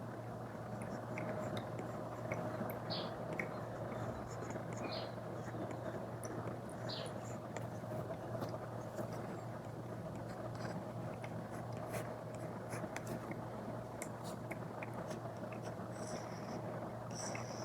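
Apple Pencil tip tapping and scratching on an iPad screen fitted with a paper-feel film: scattered small clicks and light scrapes over a steady background hiss and hum.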